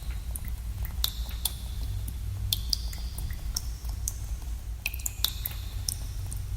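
Water drops falling irregularly into pools in a cave, a few each second, many giving a short high ringing plink, over a steady low rumble.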